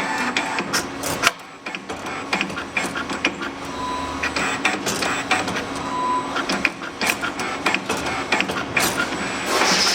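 Full-servo CNC 3D wire-bending machine running: a steady servo hum with many irregular sharp clicks and clacks from the bending head and wire feed, and a brief high whine about four and again about six seconds in.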